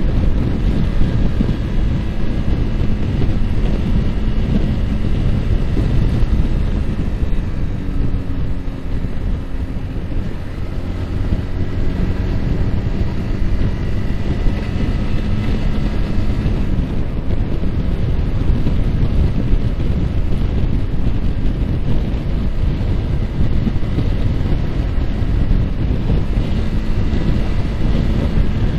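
Yamaha R15's single-cylinder engine running at road speed under heavy wind buffeting on the microphone. The engine note shifts in pitch around a third of the way in and settles again about halfway through.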